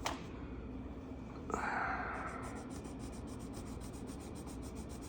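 Faint rubbing strokes of hand colouring on a paper page: a click at the start, one louder rub about a second and a half in, then soft, evenly repeated strokes.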